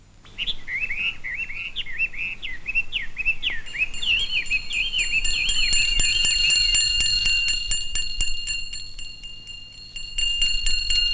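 Cartoon sound effects: quick twittering bird chirps, joined a few seconds in by a bell ringing continuously with rapid strokes, which dips briefly and comes back louder near the end.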